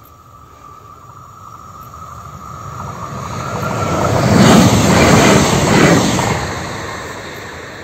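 Passenger train passing the level crossing. The rumble and wheel-on-rail clatter grow from the start, are loudest for about two seconds in the middle as it goes by, then fade.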